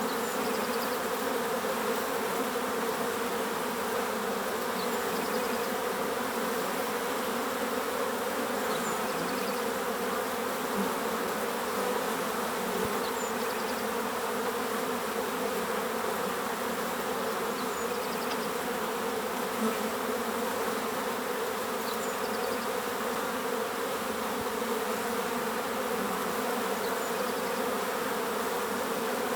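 Many bees buzzing together in a steady, unbroken drone.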